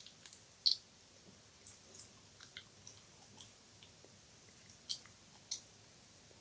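Wet ASMR mouth sounds close to the microphone: scattered sharp clicks and smacks, the loudest near the start and two more near the end.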